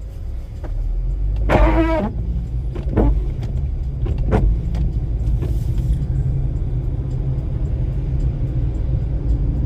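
Car driving, heard from inside the cabin: a steady low rumble of engine and tyre noise, with a few short pitched sounds in the first half.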